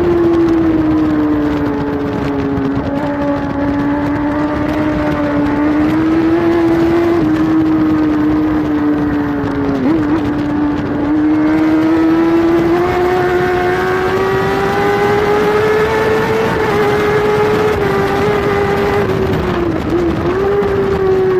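Kawasaki superbike's inline-four engine, heard from on board, held at high revs at racing speed under wind rush. The pitch rises and falls slowly, with brief dips about halfway through and near the end.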